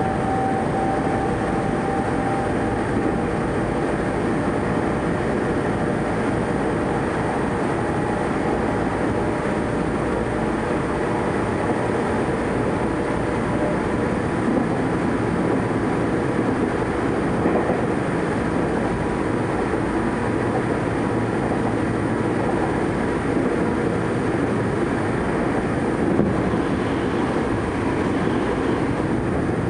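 Tokyo Metro 03 series electric train heard from inside a car running at speed: a steady rumble of wheels and running gear on the track. A thin whine fades out in the first couple of seconds, and near the end another train passes close alongside on the next track.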